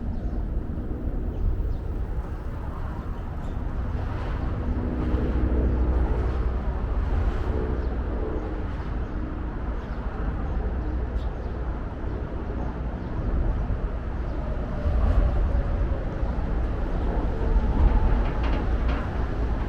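Outdoor city ambience dominated by a steady low rumble of passing vehicles, with a deeper, pitched engine-like hum swelling about a quarter of the way in and again near the end.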